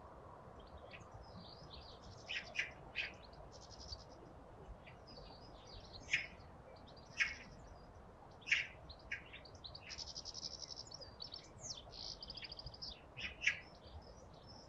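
Small garden songbirds singing: scattered sharp chirps and several quick buzzy trills, over a faint steady background noise.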